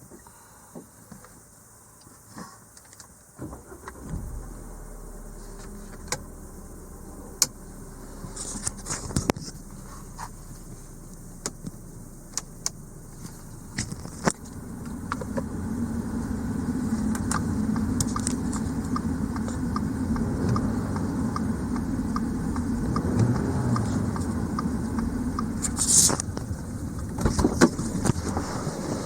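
Audi A5's 2.0 TFSI turbocharged four-cylinder engine on a start test: a few clicks and key-like jingles, then the engine comes in and runs, turning noticeably louder about halfway with a steady low drone and a fast light ticking over it. A short hiss comes near the end.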